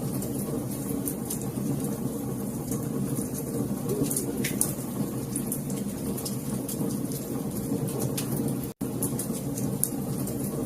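Wood fire crackling in a fireplace: a steady low rush with frequent small, sharp pops and snaps. The sound drops out for an instant about nine seconds in.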